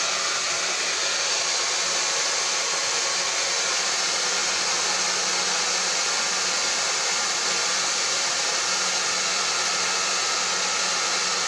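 Repaired hair dryer running steadily on its hot setting, a constant rush of blown air over a faint steady motor hum. It is now both heating and blowing, which it did not do before the repair.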